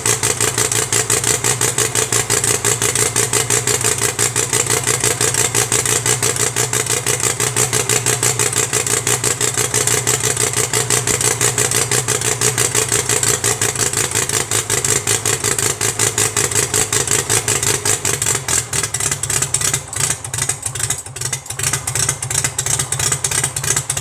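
Homemade radial engine running, its firing a rapid, even stream of pulses that turns uneven for a few seconds near the end.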